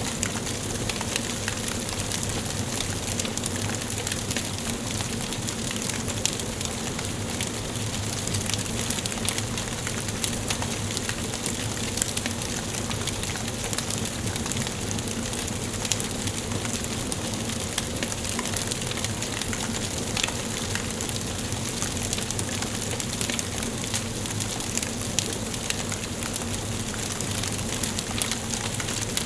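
Wood fire burning in a fireplace: a steady hiss with many small crackles and pops from the burning logs.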